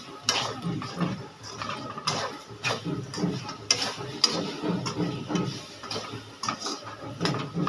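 A spoon stirring and scraping fried brinjal and potatoes with ground spices in a metal kadhai, in uneven strokes with clinks against the pan.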